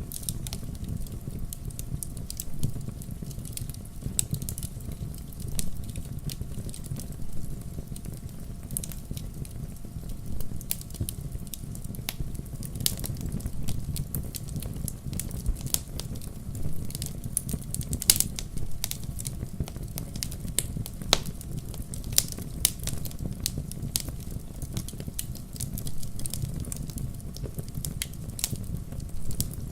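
Wood fire crackling in a fireplace: a steady low rumble of burning logs under irregular sharp pops and snaps of firewood, one louder pop about two-thirds of the way in.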